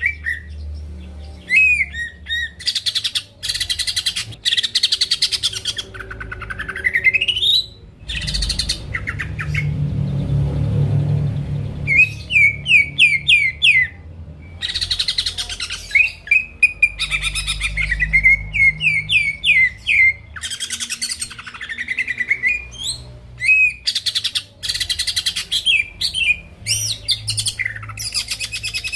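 Greater green leafbird (cucak ijo) singing a long, varied song: fast rattling trills alternate with rising whistled glides and runs of quick down-slurred notes. A faint low rumble lies underneath.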